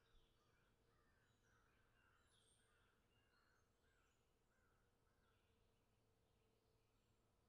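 Near silence, with faint distant bird calls: a run of short repeated calls about twice a second that stops about five and a half seconds in.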